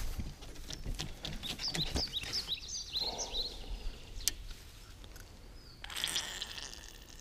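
A small bird chirping in quick runs of high, short chirps, with scattered light clicks and knocks and a brief rustle about six seconds in.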